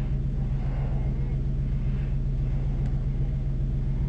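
Tow truck's engine idling steadily with a low, even rumble.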